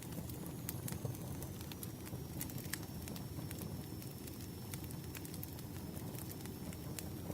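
Campfire burning: a steady low rumble of flames with scattered, irregular crackles and pops from the burning wood. A faint, thin, high whine runs underneath.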